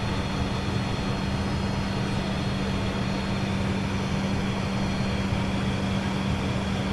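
Steady cockpit noise of an Embraer Phenom 100 light jet in its climb after takeoff: an even rush of engine and airflow with a steady low hum.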